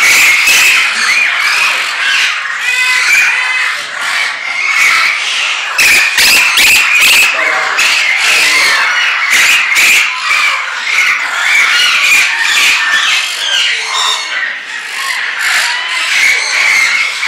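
A large number of birds chirping and squawking at once in a dense, continuous chatter.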